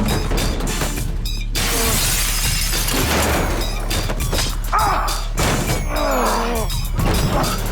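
Glass shattering amid a run of crashes and knocks, over tense dramatic score music.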